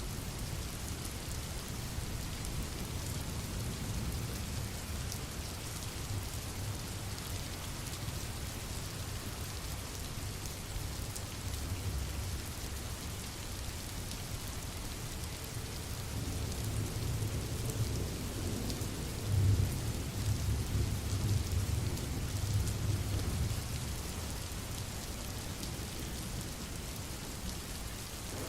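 Steady rain hiss, with a low rumble of thunder underneath that swells about two-thirds of the way through and then fades back.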